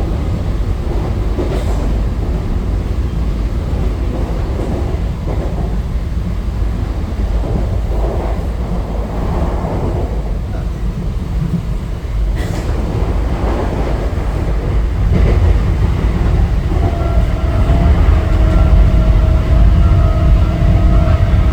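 Western Railway AC local electric train running, a steady low rumble with a few sharp clacks. Near the end a steady pitched hum comes in and the train grows louder.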